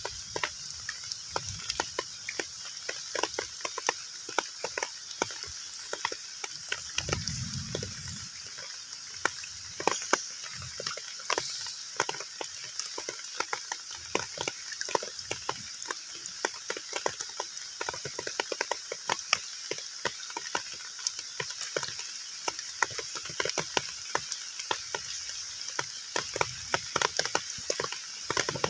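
Heavy rain falling on a pond's surface: a steady hiss packed with many close, irregular drop splashes and ticks, with a brief low rumble about seven seconds in.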